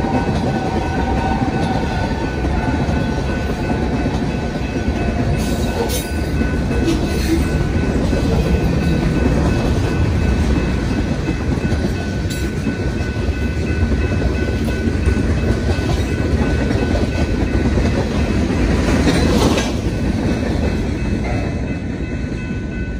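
Freight train rolling past on the BNSF main line, its cars rumbling and clattering on the rails, with a few sharper clanks along the way.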